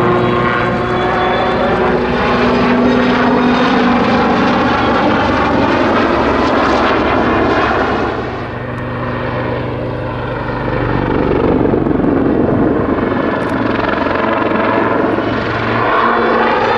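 Army Air Corps Westland Lynx helicopter flying a display, with the steady sound of its rotors and twin turboshaft engines. The pitch slowly glides as it manoeuvres, and the sound drops away for a few seconds about halfway before building again.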